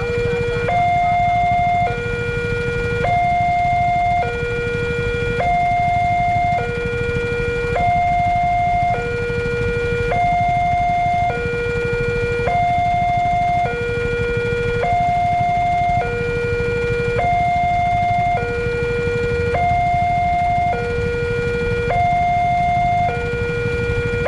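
Railway level-crossing warning alarm sounding continuously, a two-tone electronic signal alternating between a higher and a lower note about once a second each, warning of an approaching train. A steady low rumble runs underneath.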